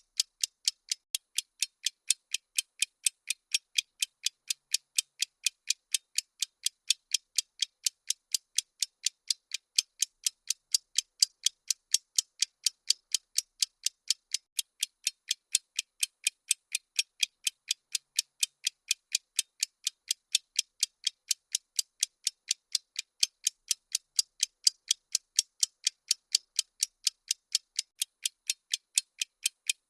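Bomb countdown timer ticking sound effect: thin, high clock-like ticks at a steady pace of about two a second.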